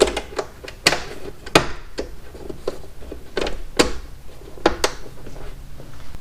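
Parts and hand tools knocking and clicking as a part is refitted to a motorcycle: a run of irregular sharp knocks, a few of them louder.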